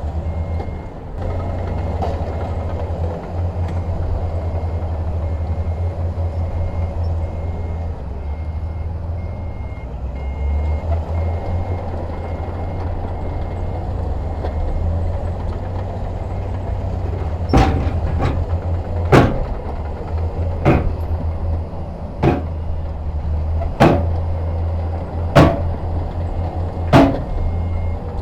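Heavy diesel machinery running with a low, pulsing engine rumble, with a faint repeating reversing beeper. From about two-thirds of the way in, sharp metallic bangs come at an even pace, about one every second and a half.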